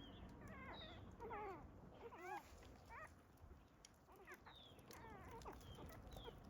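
Newborn puppies whimpering: a string of faint, high, wavering squeaks and whines, one after another, with short high chirps above them.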